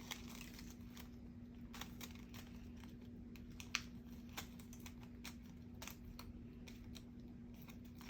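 Faint, scattered clicks and light taps of paper and card pieces being handled on a crafting desk, with one sharper click a little before the middle, over a steady low hum.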